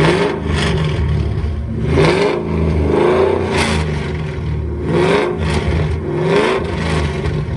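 A car engine being revved repeatedly, about five quick blips of the throttle, each rising and dropping back.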